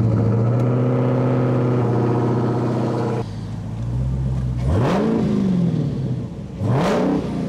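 2015 Dodge Challenger SRT Hellcat's supercharged V8 just after a cold start, the car's first start in two days, running at a steady high fast idle. The idle drops about three seconds in, followed by two short revs.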